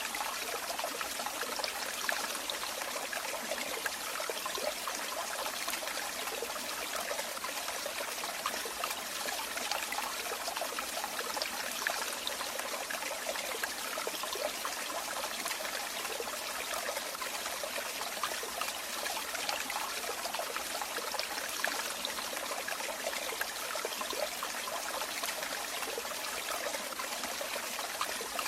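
Running water trickling and splashing steadily, like a small stream or falling water over stones, with no change throughout.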